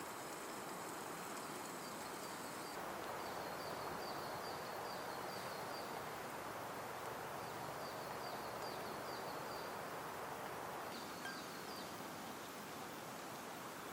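Steady forest ambience, a soft even rushing hiss, with a small bird singing runs of quick, high, repeated chirp notes, three runs in all.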